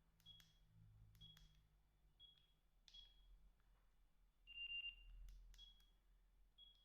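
Faint keypad clicks on a Sagem SG322i mobile phone, each press answered by a short high key beep, as its menus are stepped through. About four and a half seconds in, a lower, slightly longer beep sounds.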